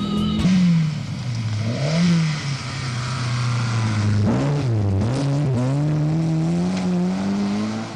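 Tuned 1600 cc four-cylinder engine of a Lada 2103 rally car revving hard under acceleration, its pitch dropping and recovering several times about halfway through, then climbing steadily near the end.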